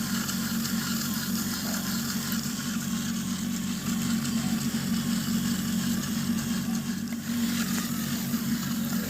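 Electric gear motors of a homemade battery-powered RC 4×4 tractor running steadily, a constant whirring hum with a hiss above it.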